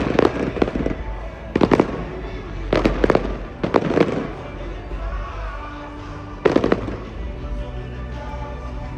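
Aerial display fireworks bursting in the sky: a string of sharp bangs at uneven intervals, several in the first four seconds and another about six and a half seconds in, with music playing faintly between them.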